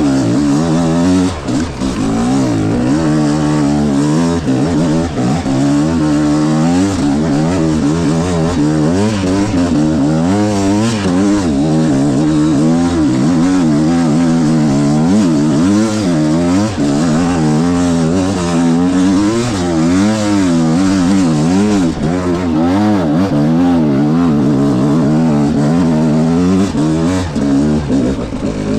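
300cc two-stroke enduro dirt bike engine revving up and down over and over, the pitch climbing and dropping every second or so as the throttle is worked through rough terrain.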